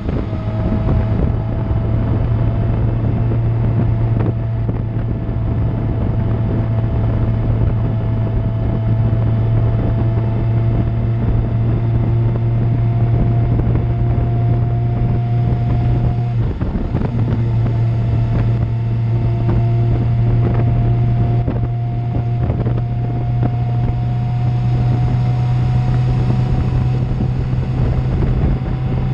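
A 2000 Suzuki GSX-R750's inline-four engine through an Akrapovic exhaust, running steadily at cruising revs with its pitch slowly climbing. There is a brief break about sixteen seconds in. Wind rushes over the microphone throughout.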